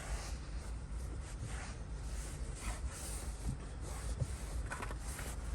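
Microfiber cloth rubbing in repeated strokes over a Nappa leather car seat, buffing off leather conditioner, over a low steady rumble.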